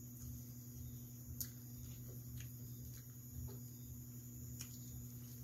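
Faint chewing and mouth sounds from eating fried chicken, with a few small clicks scattered through, over a low steady hum.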